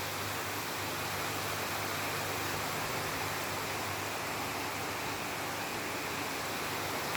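Heavy rain falling, a steady even hiss with a faint low hum beneath it.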